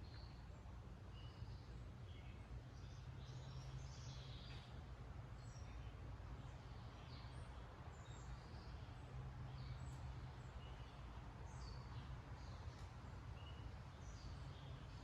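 Faint birdsong: many short, scattered chirps from small birds, over a steady low background hum.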